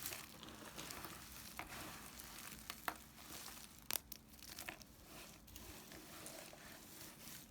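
Knife cutting through dry soap remnants: a crackly, scratchy crumbling with a few sharp snaps, the two loudest about three and four seconds in.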